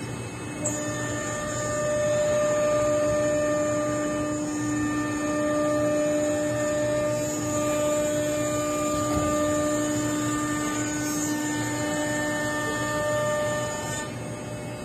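CNC nesting router running, its spindle giving a steady whine with several steady tones over machine noise; the tones change about a second in and again near the end as the machine moves.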